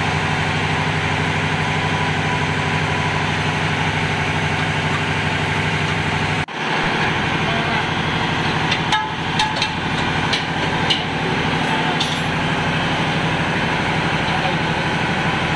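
Steady drone of diesel machinery running in a ship's engine room. The drone breaks off for an instant about six and a half seconds in, and a few sharp metallic knocks and clinks from tools on the engine come between about nine and twelve seconds in.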